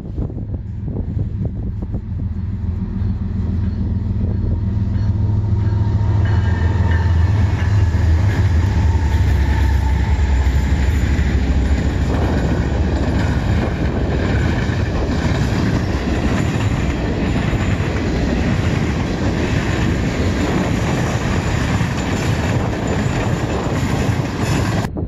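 Canadian National freight train passing close by: the lead diesel locomotives' low engine rumble builds over the first several seconds and is loudest as they go by, then a string of tank cars follows with a steady clatter of wheels on the rails.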